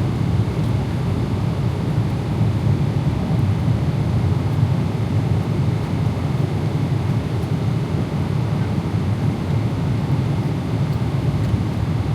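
Steady cabin noise of a Boeing 777-300ER airliner in cruise: an even, low rumble of engines and airflow.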